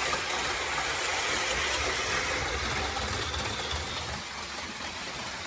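OO gauge Class 395 model train running round the layout: a steady rumble of its wheels on the track and its small motor, easing off a little in the second half.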